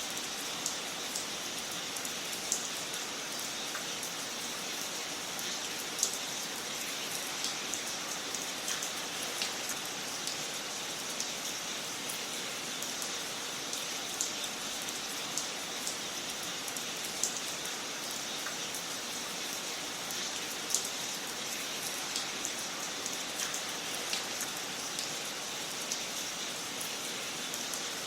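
Wood fire crackling in a fireplace: a steady hiss with sharp pops and snaps scattered irregularly, about one every second or two.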